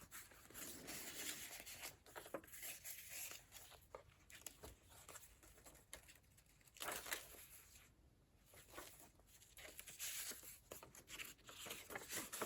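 Faint paper rustling and page turns as a handmade junk journal's thick, layered pages are leafed through and handled, with light taps and brushing of paper.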